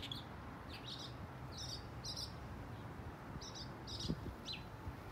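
Small birds chirping: short, bright calls, some in quick pairs, repeated irregularly over a steady low background rumble.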